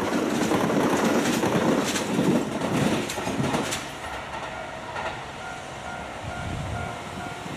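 Kintetsu electric train passing close by, its wheels clattering over the rail joints, for about four seconds. The noise then drops to a quieter steady hum with a faint whine as other trains approach along the line.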